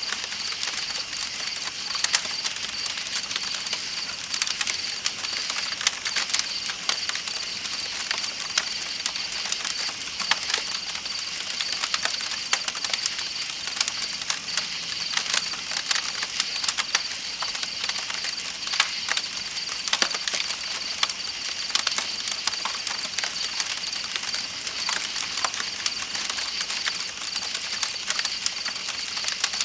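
Campfire crackling with scattered sharp pops over a steady chorus of night insects and the hiss of flowing river water.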